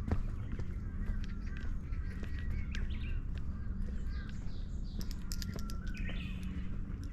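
Small birds chirping and calling in short, varied notes throughout, over a steady low rumble and a few scattered clicks.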